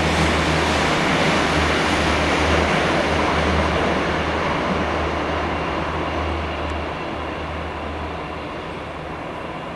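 A train running past on the rails, its rolling noise loud at first and fading steadily as it moves away, over a steady low hum.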